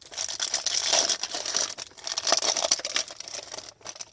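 Foil trading-card pack wrapper being torn open and crinkled, a dense crackling that stops shortly before the end.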